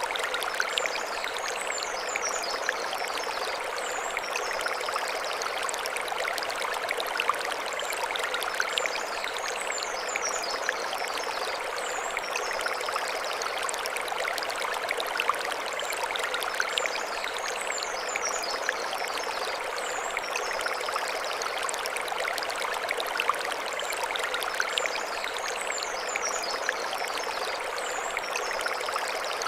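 Mountain stream flowing over stones, a steady rush of water, with a short high chirping phrase that comes back about every eight seconds.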